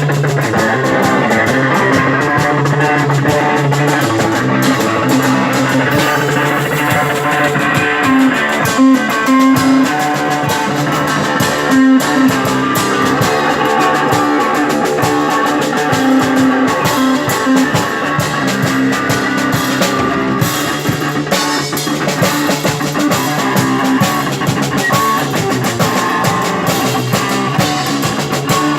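Live psychedelic rock played by a guitar and drum-kit duo: distorted electric guitar over steady drumming, with no singing.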